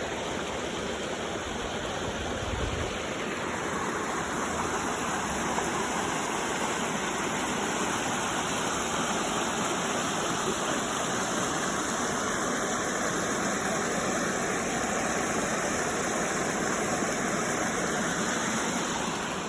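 Steady rush of creek water, with a brief low bump about two and a half seconds in.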